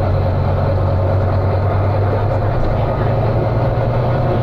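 Volvo B9TL bus's six-cylinder diesel engine running, a steady, loud low drone with a noisy rattle over it, the engine 'thrash' of this bus.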